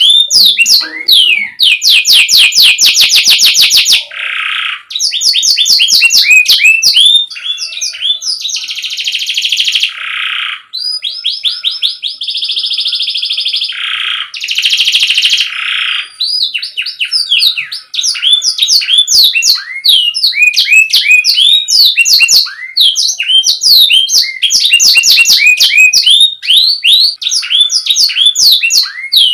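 Domestic canary singing continuously in fast trills of rapid falling whistled notes, with long buzzy rolls through the middle.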